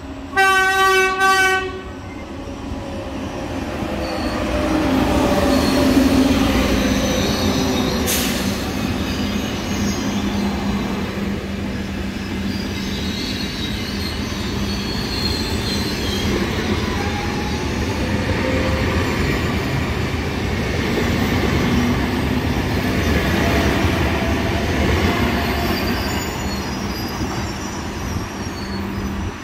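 Trenitalia Frecciarossa high-speed train sounds its horn in two short blasts, then rolls slowly past the platform with a continuous rumble of wheels on the rails and thin, high wheel squeals. There is a single sharp clank about eight seconds in.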